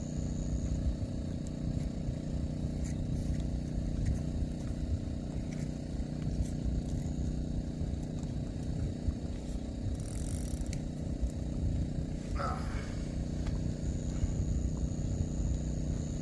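Steady low rumble of wind and surf with a constant motor-like hum, under a thin high-pitched whine that drops out about a second in and comes back near the end; a brief hiss about ten seconds in and a short falling squeak about twelve seconds in.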